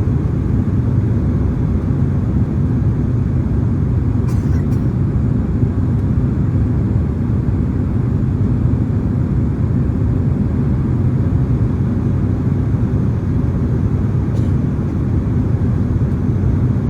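Steady low rumble of airflow and engines inside the cabin of a Boeing 767-300ER airliner in flight, with two faint ticks about four seconds in and near the end.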